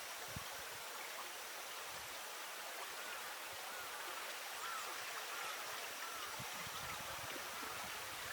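Steady hiss of flowing water. From about three seconds in, a small bird gives a run of short, arched chirps, roughly two a second.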